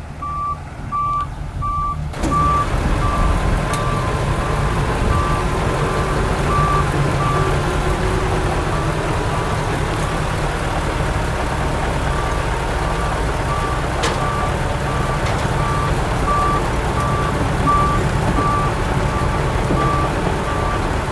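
A heavy machine's reversing alarm beeping steadily, about once a second, over a diesel engine running. The engine noise comes up loudly about two seconds in.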